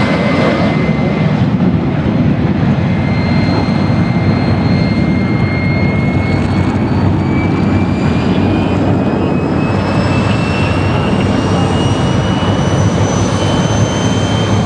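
Loud, steady aircraft engine noise with a thin high whine that slowly rises in pitch throughout.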